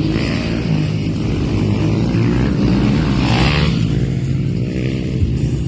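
Motocross dirt bike engines running hard during a race, a loud steady drone with the pitch shifting about halfway through as bikes pass.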